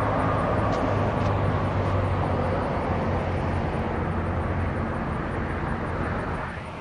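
Steady low rumble and hum of a freight train at a rail yard, easing off slightly near the end.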